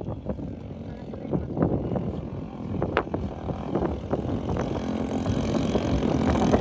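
A motor vehicle's engine running, its steady hum coming in and growing louder over the last couple of seconds, with scattered light clicks and knocks throughout.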